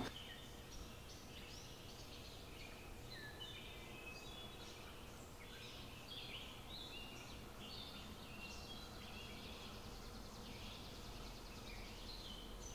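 Faint chirping of small birds, many short notes gliding up and down in pitch, over a low steady hum.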